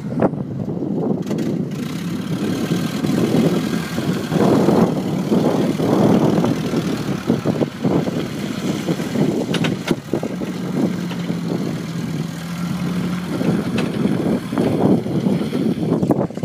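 Hyster forklift engine running, its sound swelling and falling repeatedly over a steady hum, with a few sharp clicks about ten seconds in.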